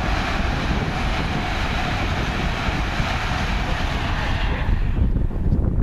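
LNER Class 800 Azuma train passing at speed, a steady rush of wheels and air that dies away sharply about five seconds in as the last coach clears. Wind rumbles on the microphone throughout.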